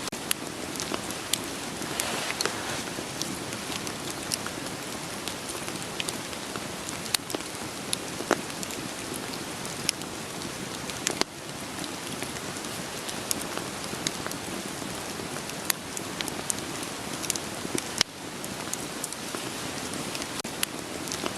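Steady rain hiss, with the crackle and sharp pops of a wood fire burning scattered irregularly through it. The overall level drops suddenly twice, about halfway through and again a few seconds later.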